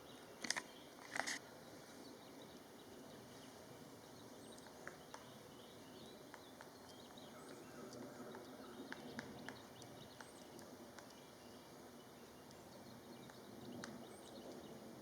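Pileated woodpecker striking wood: two sharp knocks about half a second and a second in, then scattered faint irregular taps.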